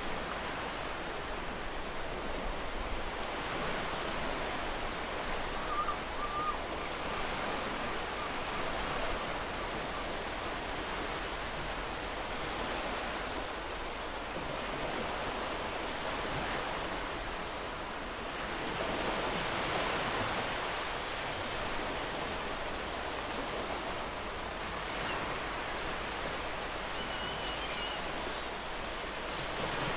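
Ocean waves breaking and washing up a shore: a steady rushing surf noise that swells and ebbs, growing loudest about two-thirds of the way in.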